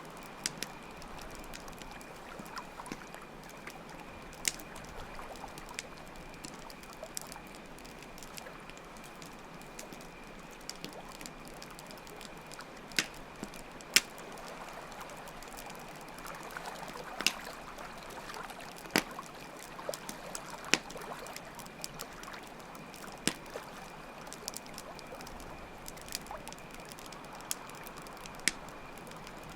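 Campfire crackling, with sharp pops scattered irregularly, over steady trickling water and a constant high chirring of crickets.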